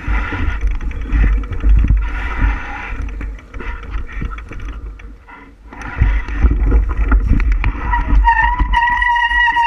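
Wind buffeting the microphone of a moving bicycle, with a gusty low rumble that eases briefly about five seconds in. Near the end a steady high whine with overtones sets in.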